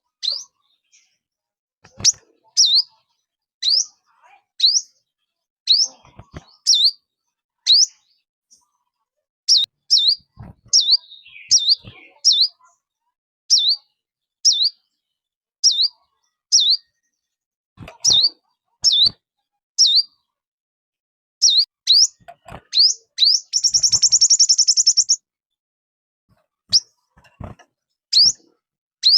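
A small songbird calling over and over with short, sharp, high chirps, each a quick swooping note, one every half second to a second. It breaks about three-quarters of the way through into a brief buzzy rattle. This is the call of the bird known in Vietnam as 'chim 5 màu', used as a lure call for trapping.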